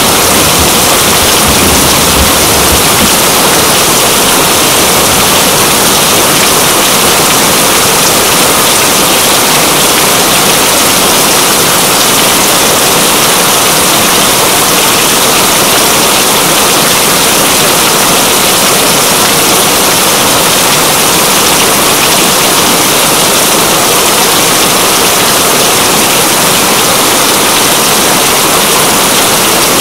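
Heavy, steady rain making a dense, even hiss. The tail of a low thunder rumble fades out about a second in.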